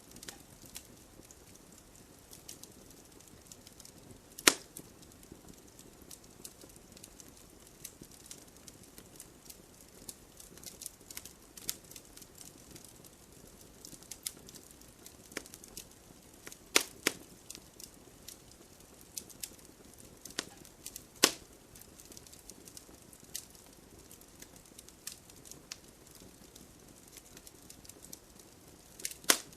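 Campfire crackling: a soft steady hiss of burning wood with scattered sharp pops and snaps, a few of them much louder than the rest.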